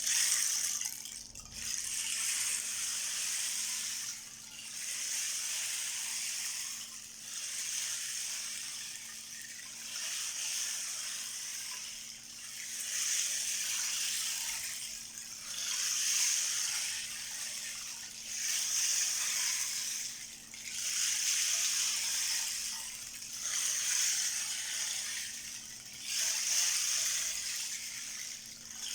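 A 12-inch rain disk tilted back and forth. Its filling streams across with a rain-like hiss that swells and fades about every two and a half seconds.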